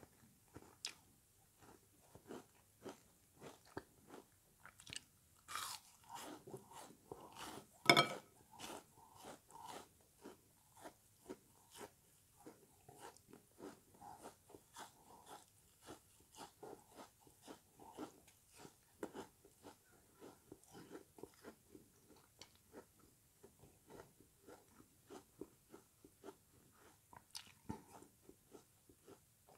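Frozen sponge pieces being bitten and chewed, a close crackly crunch about twice a second, with one much louder bite about eight seconds in.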